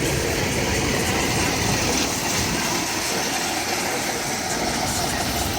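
Steady engine and rolling noise of a road train under way, heard from aboard with a continuous low rumble.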